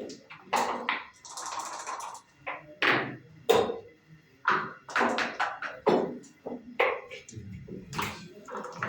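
Backgammon play: a series of sharp clacks and taps as checkers are set down on the board and dice are rolled, with a brief rattle of dice about a second in.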